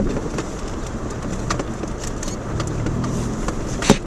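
Subaru Outback driving over a rough gravel road: the engine runs steadily under scattered clicks and rattles, with a sharp knock near the end.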